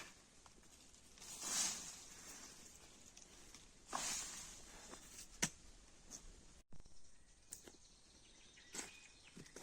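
Two soft swishing scrapes, then a few light knocks and clicks, typical of hand work with wood or soil outdoors.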